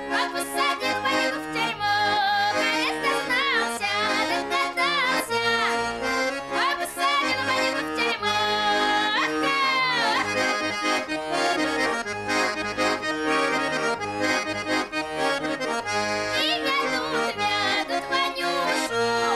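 Accordion music in a traditional folk style, with held chords and quick melodic runs.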